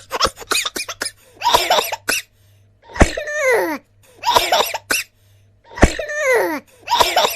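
Cartoon sound-effect voice clips: a quick patter of clicks, then a series of short vocal cries, each sliding down in pitch, several of them opening with a thump.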